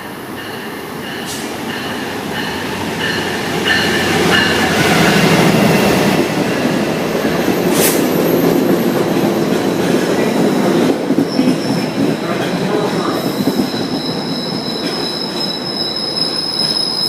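A train running close by on steel rails, its rumble building over the first few seconds and then holding loud. About halfway through, the wheels set up a steady high-pitched squeal that lasts to the end.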